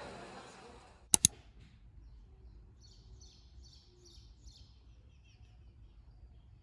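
A background hubbub fades out, then two sharp clicks come close together about a second in. After that a small bird chirps a quick series of about five high notes, with faint room tone.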